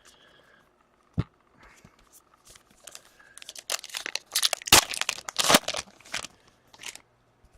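Hockey card pack wrapper being torn open and crinkled by hand. There is a single knock about a second in, then a run of crackling tearing and crinkling that is loudest a little past the middle.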